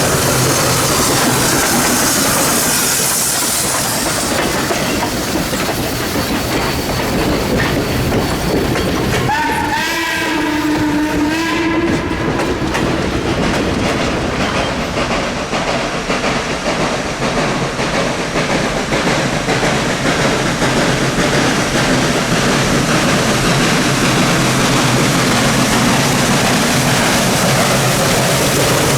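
Chesapeake & Ohio 1309, a 2-6-6-2 Mallet steam locomotive, running with its train. Its steam whistle sounds once, about ten seconds in, for roughly two seconds, over the steady loud noise of the train.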